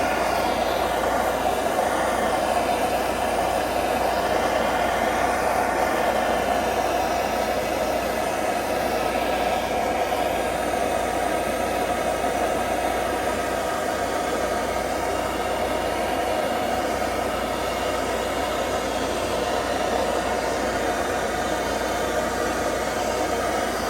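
Heat gun blowing steadily as it warms the Dodge 383 engine block.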